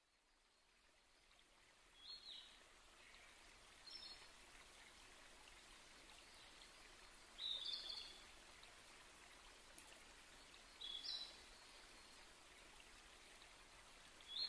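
A bird chirping in about five short calls, spaced two to four seconds apart, over a steady hiss of water that fades in at the start.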